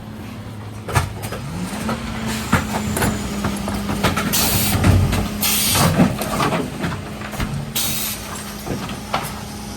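Mercedes Econic refuse truck's engine running steadily, rising in pitch about a second and a half in and holding at the higher revs, with sharp metal knocks and clanks. Several short bursts of air hiss come about halfway through and again near the end.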